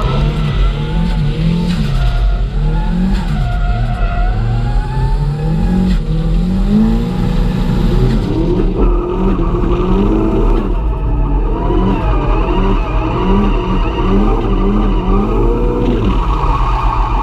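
Car engine revving up and down over and over, as during a drift run, with quicker rev blips in the second half.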